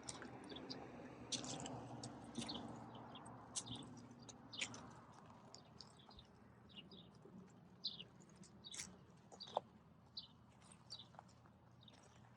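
Faint outdoor birdsong: many short, high chirps from small birds, scattered irregularly, over a low background rumble that dies away after the first few seconds.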